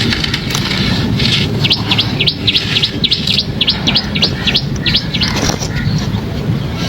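A small bird calling a rapid series of sharp, high chirps, about five a second, for roughly three and a half seconds, over a steady low rumble.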